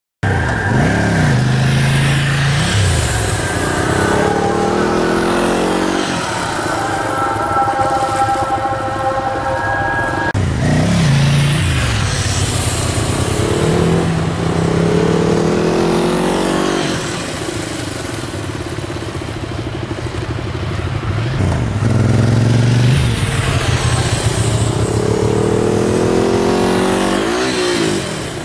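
Motorcycle engine repeatedly speeding up and slowing down, its pitch rising and falling in about three long swells.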